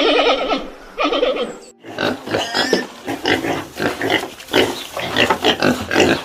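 Animal calls: a long, rapidly pulsing call and a shorter one, then, after an abrupt break, a run of short calls in quick succession.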